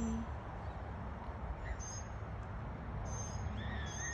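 Small birds chirping faintly: a few short, high-pitched calls in the second half, one of them a brief gliding whistle, over a steady low background rumble.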